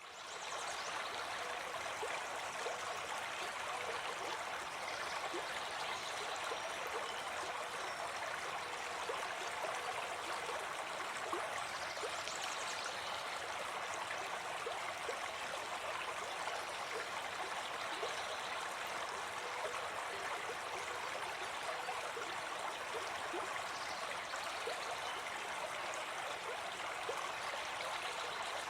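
Small forest stream running steadily, a continuous rushing and trickling that fades in at the very start. Faint bird calls come through a few times in the background.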